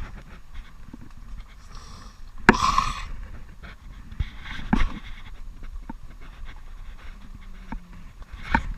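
A man breathing hard close to the microphone, with one loud panting exhale about two and a half seconds in and a few light knocks.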